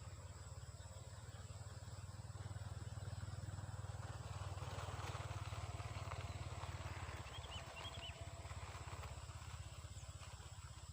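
Rural field ambience: a low steady rumble with a thin, steady high insect drone over it, and a few short bird chirps about seven to eight seconds in.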